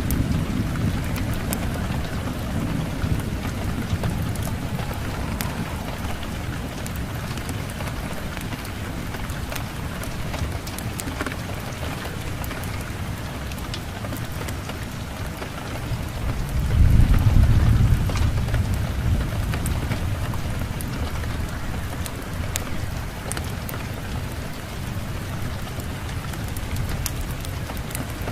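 Steady rain with scattered sharp ticks over it, and a deep low rumble that swells for a couple of seconds about two-thirds of the way through.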